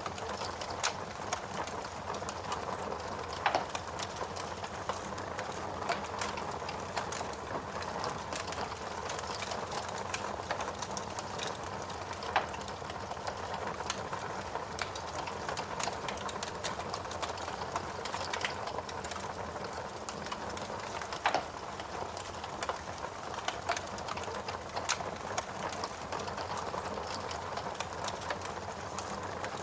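Wood fire crackling in a fireplace: a steady hiss of burning with frequent small crackles and a few louder pops.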